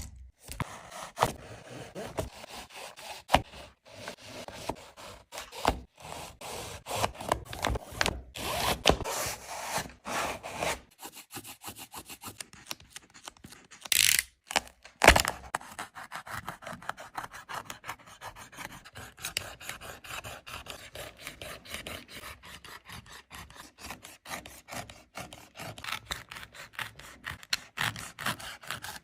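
A Nike Air Jordan 36 sneaker being cut apart by hand: repeated uneven scraping and rubbing strokes of a tool working through the shoe, with two louder bursts about 14 and 15 seconds in.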